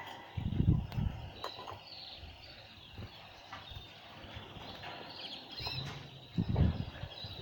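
Canaries and European goldfinches bathing in water, with two short flurries of wings splashing, about half a second in and again near the end. Their chirps and calls go on throughout.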